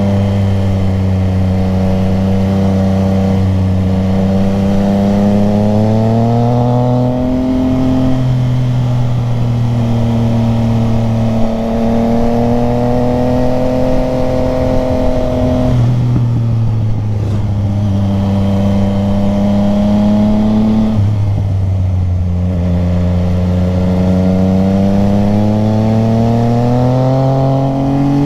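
Motorcycle engine heard from on the bike while riding, its pitch climbing slowly as it pulls and then dropping suddenly three times as the revs fall between gears or off the throttle.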